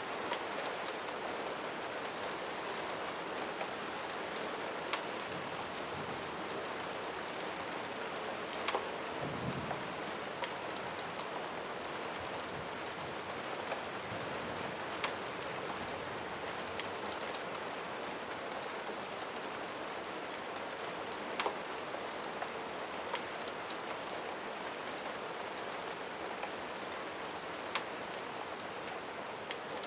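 Steady rain falling on a surface, an even hiss, with a few sharp isolated clicks or pops scattered through it.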